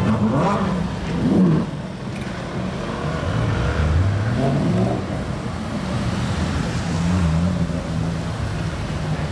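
Ferrari engines, including a 458 Italia's V8, accelerating at low speed, the revs rising and falling several times.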